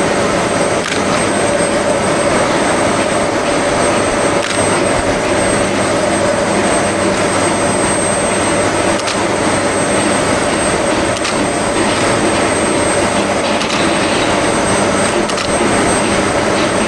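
Steam locomotive giving out a loud, steady roar with a constant hum under it and a few faint knocks.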